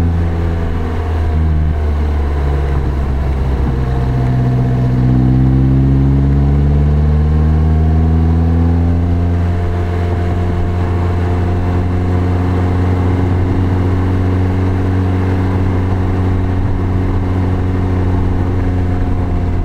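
Lotus Elise engine heard from the open cockpit as the car is driven. After a brief dip just after the start, the note rises steadily for about six seconds under acceleration, then drops around halfway to a steady cruising note, over a constant rush of road and wind noise.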